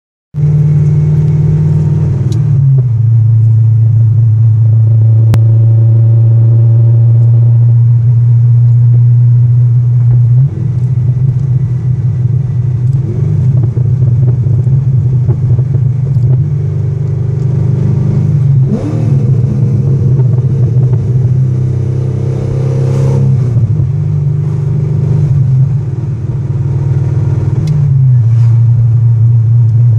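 C6 Corvette Z06's 7.0-litre LS7 V8, fitted with ported heads, a performance cam, headers and a Billy Boat Bullets exhaust, running with a deep, steady low exhaust note. The tone drones a few seconds in. Its pitch steps down and back up several times, with one quick rev and settle a little past halfway.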